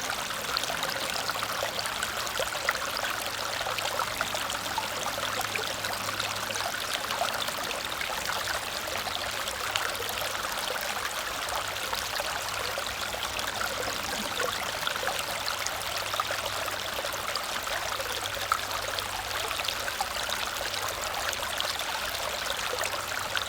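Small waterfall cascading steadily: an even rush of falling water with scattered small splashes.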